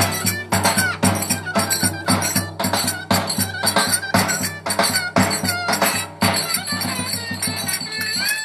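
Turkish köçek dance music at a wedding: a lively, ornamented melody over a fast, steady beat of jingling percussion strokes.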